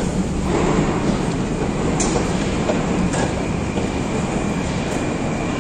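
Metro train running in the station, a steady rumble with a few sharp clicks and, from about halfway, a faint steady whine.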